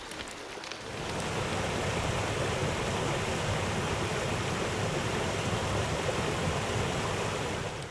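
Rushing water of a mountain stream, a steady hiss that swells about a second in and cuts off suddenly at the end.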